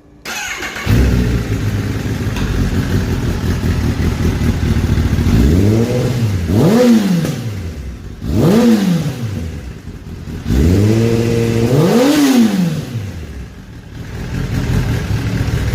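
Kawasaki ZX10R inline-four starting through an Akrapovic titanium slip-on exhaust with its dB killer removed. It catches about a second in and idles, then is revved about four times, the pitch rising and falling each time, and settles back to idle near the end.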